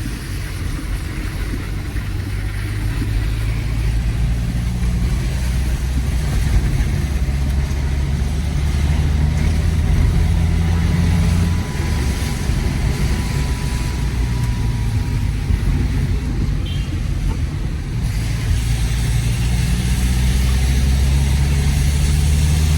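A road vehicle's engine running while driving, with road noise. The engine note shifts briefly about halfway through and again later.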